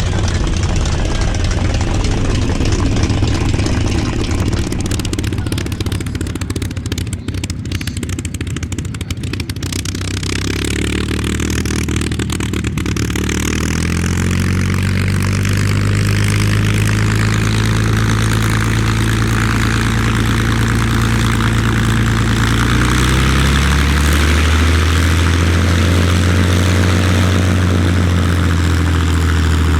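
Merlin V12 piston engine of a warbird fighter running at low power. A rough, broad engine sound for about the first ten seconds settles into a steady, even drone, with the engine note dipping and rising slightly near the end.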